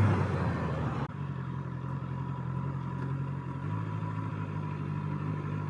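Honda CBR650R's inline-four engine idling steadily after wind and road noise die away in the first second as the bike comes to a stop. The idle pitch shifts slightly about three and a half seconds in.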